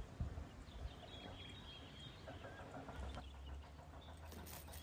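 Faint short bird chirps over a low steady hum.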